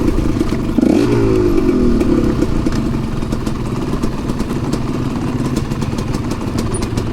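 Enduro dirt bike engine running as the bike is ridden on a trail. The revs rise about a second in, then hold a steady note, with scattered clicks and clatter over it.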